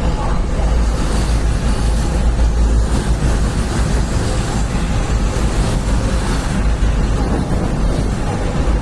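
Train hauled by twin WAG-9 electric locomotives running past at speed: a steady, loud rumble of wheels on rail with a heavy low roar.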